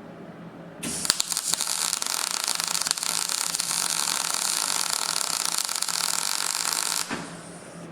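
MIG welder laying a plug weld in sheet steel: the arc crackles steadily for about six seconds, starting about a second in and cutting off suddenly near the end.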